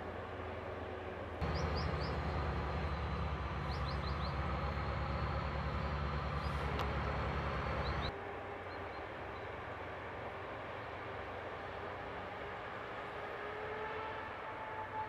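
Heavy diesel harvest machinery running, a steady engine rumble with a steady whine over it. It is much louder from about a second and a half in until about eight seconds, starting and stopping abruptly, with a few short high chirps during that stretch.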